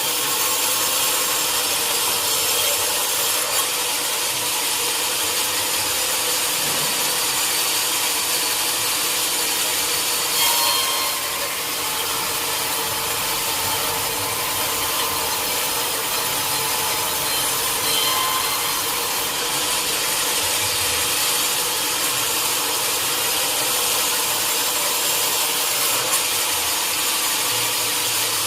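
Sawmill blade cutting steadily through a teak log, a continuous high hiss of sawing wood, with a brief louder moment about ten seconds in.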